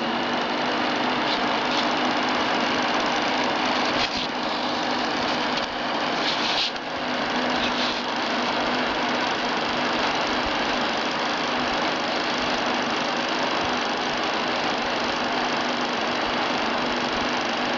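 Electric fan of a DIY cardboard-box air cooler running steadily, blowing air out through a pipe, with a constant low hum over the rush of air and a few light knocks near the middle.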